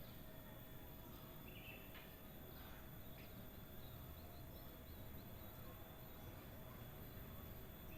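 Faint background hiss with a steady hum, and a few soft short bird chirps, kutilang emas (bulbul) calls, about two and three seconds in, then a quick run of tiny chirps around the middle.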